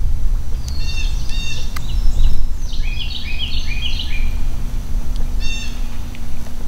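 Birds calling outdoors in quick runs of short, stepped chirps, two runs in the first half and a short one near the end, over a steady low rumble that is the loudest sound throughout.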